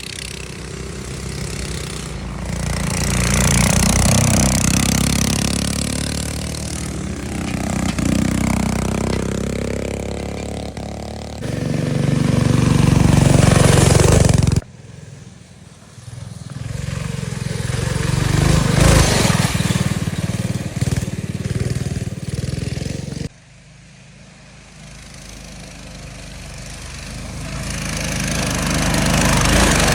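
Small minibike engines running past at speed, each swelling louder as it approaches and fading as it goes. The sound breaks off abruptly twice, then builds again.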